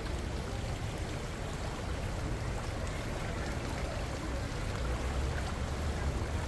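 River water rushing and burbling steadily.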